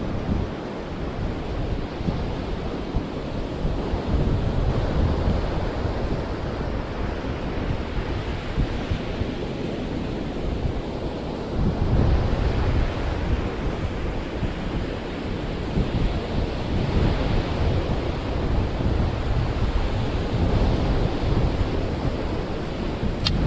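Ocean surf washing on a beach, rising and falling in several swells, with wind buffeting the microphone into a low rumble. A brief sharp click comes near the end.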